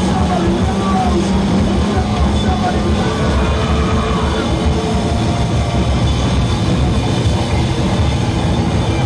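Live rock band playing a loud, dense instrumental passage without vocals: drums, basses and electric guitars.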